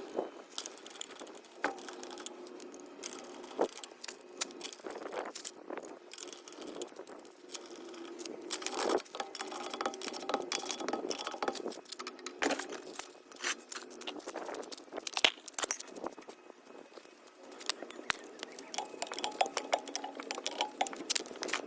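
Irregular metallic clicks, clinks and small knocks of hand tools and parts being handled, some coming in quick runs.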